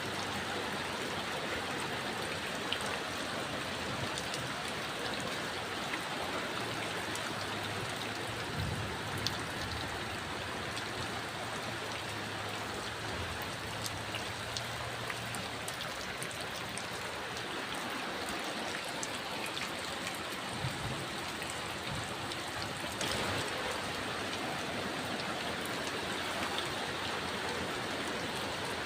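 Rain falling steadily, with scattered sharper drop ticks.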